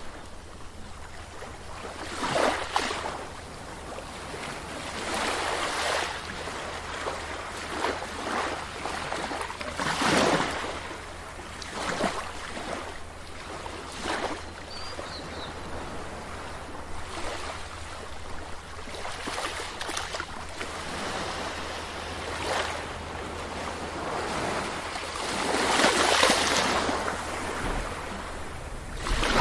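Sea waves washing onto a beach, an uneven run of surges every few seconds, with the biggest one near the end.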